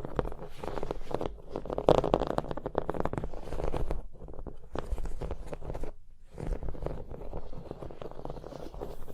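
Rapid tapping on objects: a dense run of quick taps and light scratches, with two brief lulls in the middle.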